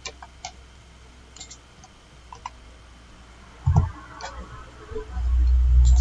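Scattered computer mouse clicks while copying and pasting text. A dull thump comes about three and a half seconds in, then a loud low rumble of unclear source starts near the end.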